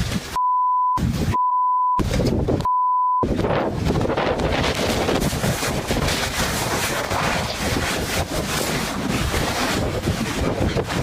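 Strong wind buffeting the microphone, a loud rough roar with gusts. In the first three seconds it is broken by three short, steady bleep tones that blank out the sound between bursts of wind.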